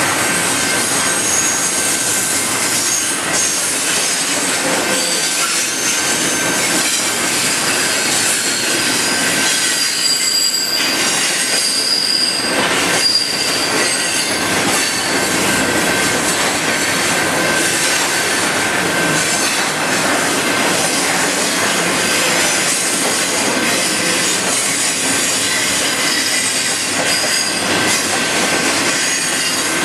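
Double-stack container freight train rolling past close by: a steady rush and rattle of steel wheels on the rails, with high-pitched wheel squeal on the curve that is strongest about eleven to thirteen seconds in.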